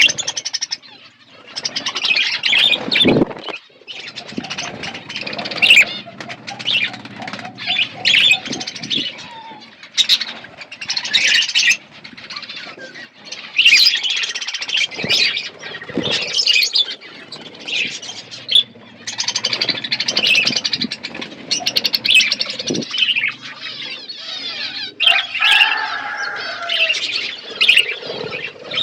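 Several budgerigars chattering and chirping nonstop, their warbling broken by short squawks and scattered sharp clicks.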